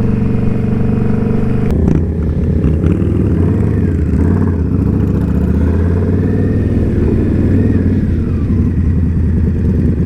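Indian Scout Bobber V-twin motorcycle engine running under way, heard from the rider's seat. About two seconds in there is a brief click and the engine note drops to a lower pitch, then runs steadily.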